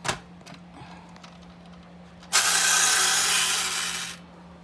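Toy truck worked by hand: a light click, then a whirring mechanism for about two seconds that stops abruptly.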